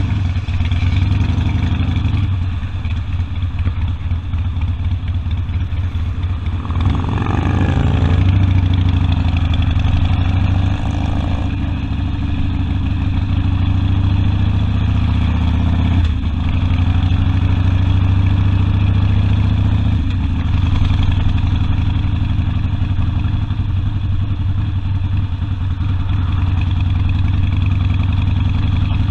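Harley-Davidson Sportster V-twin engine running under way. It revs up with a rising note about seven seconds in, and its note dips and changes briefly a few times afterwards, as with gear changes or throttle changes.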